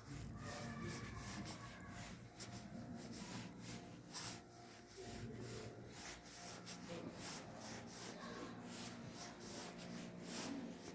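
Repeated rubbing and scraping strokes, a few a second, typical of a handheld recorder or clothing brushing against the microphone, with faint voices far in the background.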